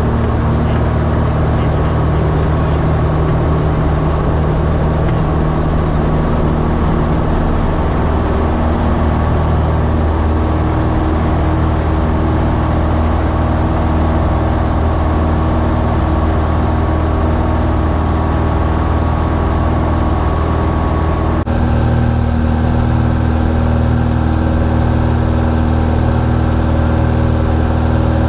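Cessna 172's freshly overhauled piston engine and propeller running steadily at a constant pitch. The sound changes abruptly about 21 seconds in, then runs on steady.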